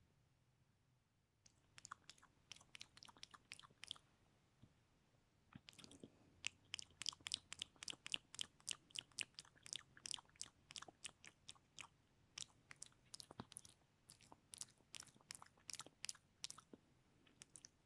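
Close-miked ASMR mouth sounds: rapid wet clicks and smacks of tongue and lips, several a second. They start about a second and a half in and grow denser and louder after about five seconds.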